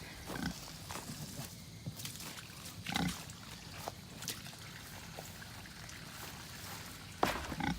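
Pigs grunting now and then, with a louder grunt about three seconds in, and a sharp knock near the end.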